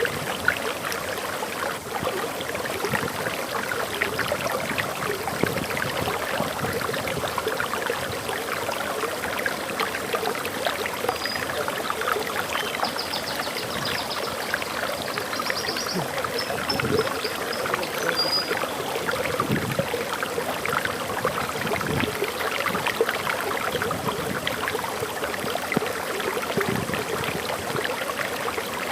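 Waterfall rushing steadily, an even wash of falling water. A bird gives a few brief, faint high chirps near the middle.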